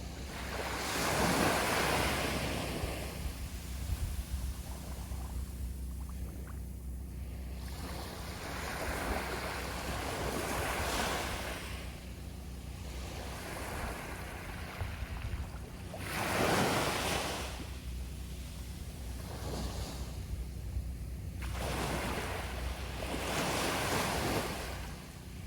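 Sea waves breaking and washing up the shore, four surges a few seconds apart, each swelling and fading away.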